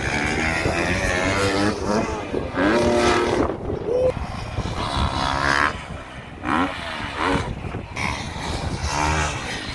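Dirt bike engines revving hard, the pitch rising and falling again and again.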